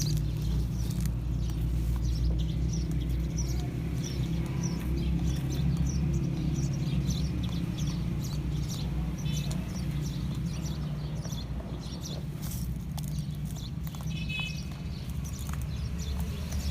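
Radio-controlled off-road truck driving over rough ground: a steady low drone with many small, irregular clicks and crunches.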